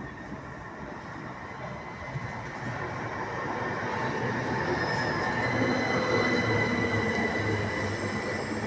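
Train approaching, its rumble growing steadily louder, with a thin high squeal from the wheels on the rails strengthening in the second half.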